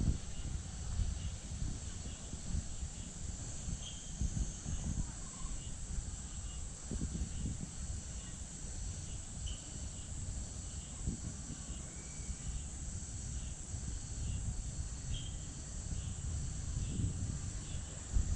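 Steady high-pitched insect drone in summer woodland, with a few faint short chirps and irregular low rumbling on the microphone.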